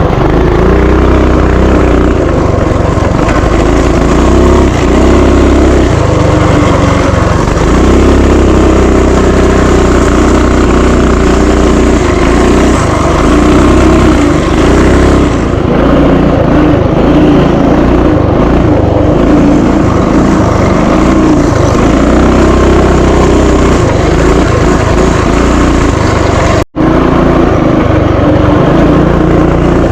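Small mini bike engine running under varying throttle while riding a trail, its pitch rising and falling continuously, with a momentary break in the sound near the end.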